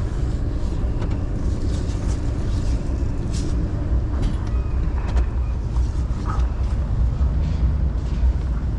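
Truck engine running with a steady low rumble as it drives over the scrap-yard ground, with scattered knocks and rattles.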